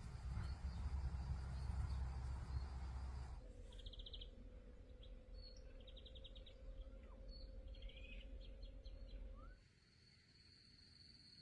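Outdoor ambience: a low rumbling noise for the first few seconds, then small birds chirping with quick rattling trills. Near the end a steady high tone takes over.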